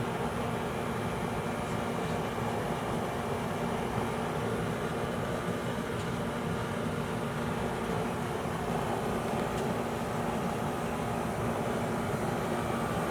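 Residential heat pump running steadily with its newly replaced compressor and fan: an even whooshing hum with a constant low tone.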